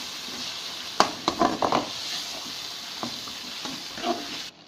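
Chicken karahi sizzling in the oil of a metal karahi while a metal spatula stirs it, with a quick run of sharp clinks and scrapes of the spatula against the pan about a second in and a few more later. The sizzle cuts off suddenly just before the end.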